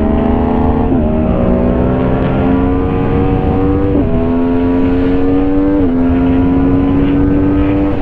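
Yamaha MT-10's crossplane inline-four motorcycle engine at full throttle in a race, its pitch climbing steadily through each gear and dropping sharply at each upshift: about a second in, at about four seconds, just before six seconds and at the end. Wind rushes on the microphone.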